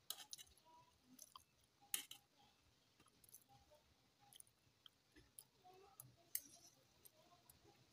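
Faint, close-miked chewing of fried instant noodles (mie goreng) eaten from a fork, with a few sharp clicks: one right at the start, one about two seconds in, and the loudest a little after six seconds.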